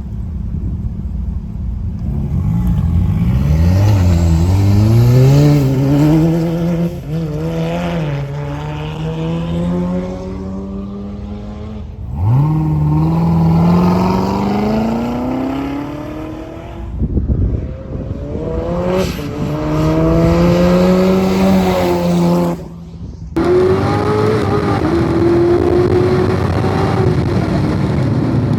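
Car engine at full throttle on a race track, climbing in pitch through the revs, dropping at each upshift and climbing again, over several stretches.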